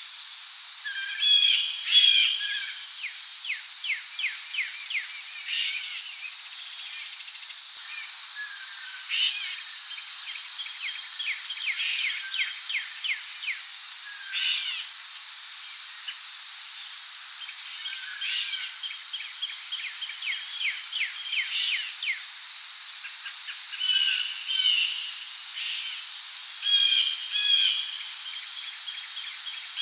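Rainforest ambience: a steady, high-pitched insect drone from crickets, with many birds calling over it in short chirps and quick trills.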